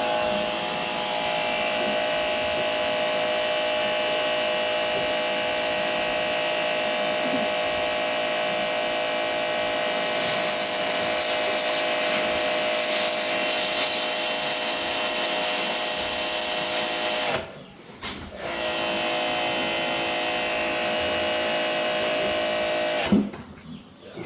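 A motor-driven machine running steadily with a hum of several fixed pitches; about ten seconds in a louder, harsh, hissing grinding noise joins it for several seconds. It stops briefly, starts again, and cuts off shortly before the end.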